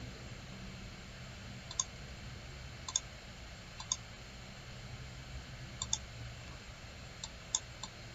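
Computer mouse clicks, about half a dozen spread out, several in quick pairs, over a low steady hum.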